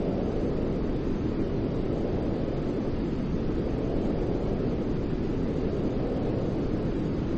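Steady, even white noise for infant sleep, weighted toward a deep rumble rather than a bright hiss, unchanging throughout.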